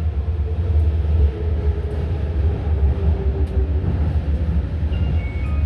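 Xi'an Metro Line 6 train running between stations, heard from inside the car: a steady low rumble with a faint motor whine. A few short high tones sound near the end.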